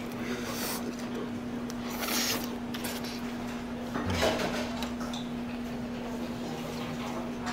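Close-up crunching and chewing of a mouthful of raw shredded cabbage, in a few crisp bursts, over a steady low hum.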